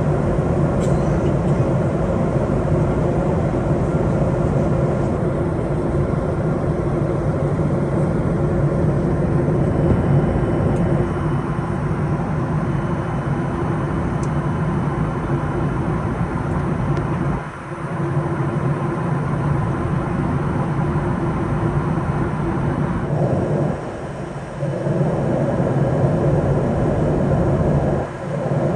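Steady in-flight cabin noise inside a Boeing 737-800: a constant rush of airflow with a low hum from its CFM56-7B turbofan engines. The level drops briefly about two-thirds of the way through and twice more near the end.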